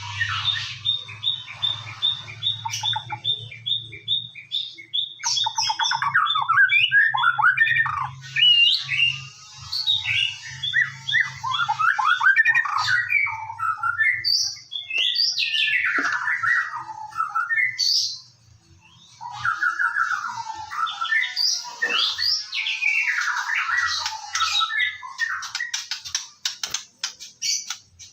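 White-rumped shama singing a loud, varied song. It opens with a fast run of repeated high notes, then goes into rich whistled phrases and trills, with a brief pause about two-thirds through.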